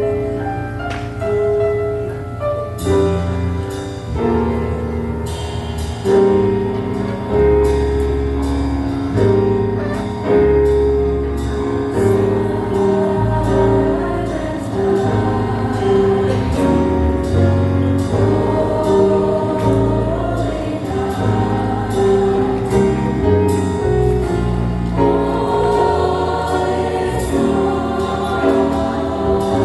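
Church choir singing a Christmas song in a jazz, swing style, with band accompaniment and a steady bass line; regular percussion strokes join about three seconds in.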